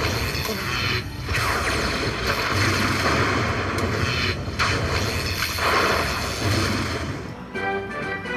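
Aristocrat Lightning Link slot machine sound effects during its Hold and Spin feature: a loud rushing noise with a low rumble, broken by short pauses. About seven and a half seconds in, it gives way to a chiming tune.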